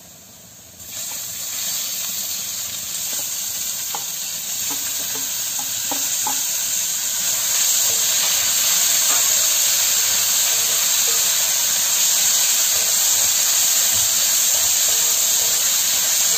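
Cooked fish roe frying in hot coconut-oil masala in a metal pan: a steady sizzle that starts about a second in and grows louder over the next several seconds as it is stirred, with a few light clicks of the stirring utensil against the pan.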